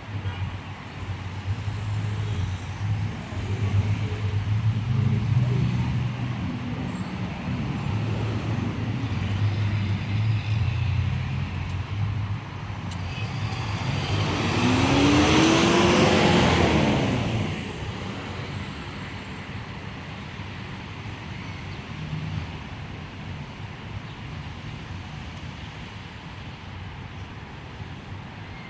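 Rush-hour street traffic: engines running close by for the first dozen seconds, then a vehicle passes close about fifteen seconds in, its sound swelling and its pitch rising and falling, before settling to a steady traffic hum.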